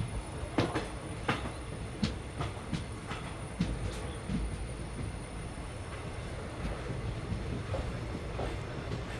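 Train running on the rails, heard from on board: a steady low rumble with irregular clicks and knocks from the wheels and running gear, and a faint high whine over it.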